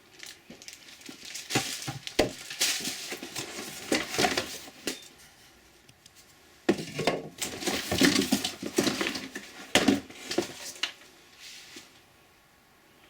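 Vacuum cleaner parts and packaging being handled during unboxing: rustling, crinkling and light plastic clattering and knocking in two busy stretches, the second starting with a sharper knock about seven seconds in.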